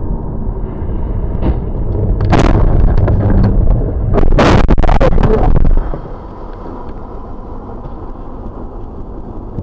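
Road crash picked up by a dashboard camera: a steady rumble of engine and road noise, then two loud crashing impacts about two seconds apart. After them the sound drops to a quieter rumble.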